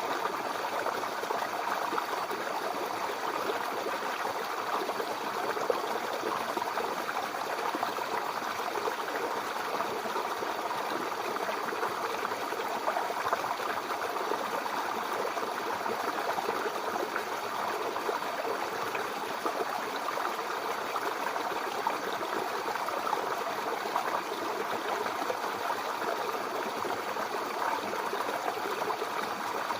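Mountain river flowing steadily over rocks: an even rush of water with small splashes and gurgles.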